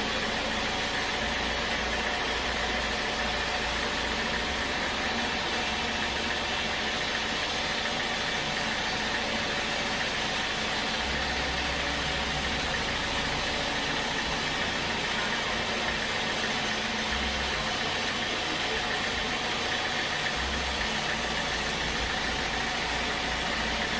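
Sawmill machinery running steadily, a continuous engine-like mechanical noise with a low rumble.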